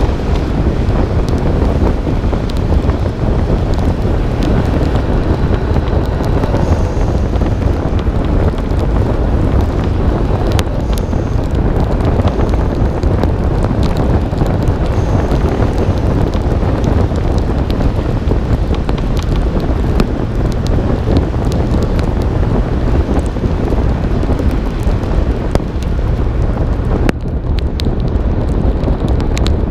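Heavy wind buffeting on a hood-mounted camera's microphone on a moving car in the rain, with scattered clicks that are typical of raindrops striking the camera. The Nissan Skyline R32 GT-R's driving noise lies underneath.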